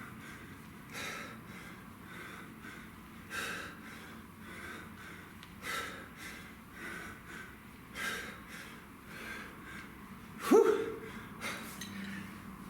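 A man's heavy breathing from exertion during a kettlebell workout, a forceful breath every one to two seconds. About ten seconds in comes a louder grunt that drops in pitch.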